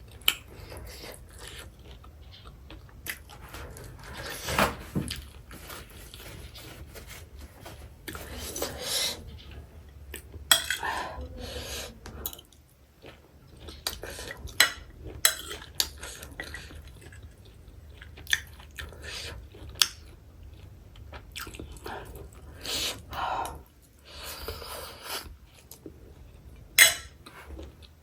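Close-miked eating: chewing and crunching food, with scattered sharp clinks of cutlery and dishes.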